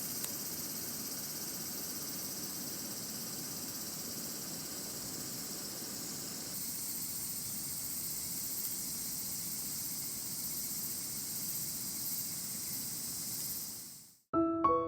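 Steady chirring of night insects, a crickets' chorus, high-pitched and continuous. It fades out near the end and piano music starts.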